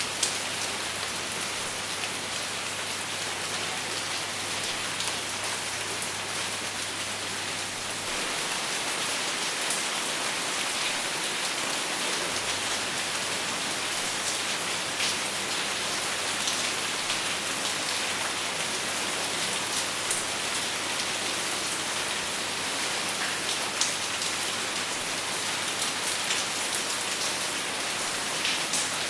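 Steady rain falling on a surface, with scattered sharper ticks of single drops and no thunder; it grows a little louder after about eight seconds.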